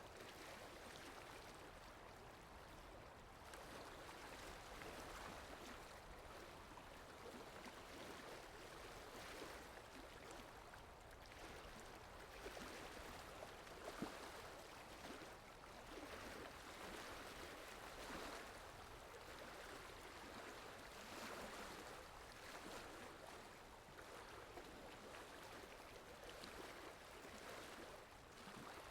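Faint, steady water ambience: a soft hiss of rain or running water that swells and eases, with one small tap about fourteen seconds in.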